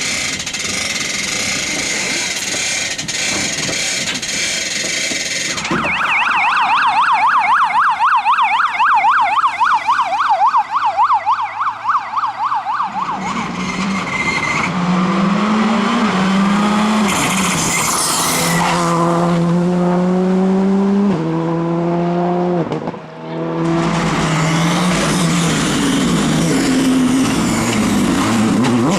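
Rally cars at speed on a tarmac stage. First a long warbling tyre squeal from a car sliding through a corner, then an engine revving up and shifting through the gears several times, the pitch climbing and dropping back at each shift. After a brief break, another car passes at full throttle.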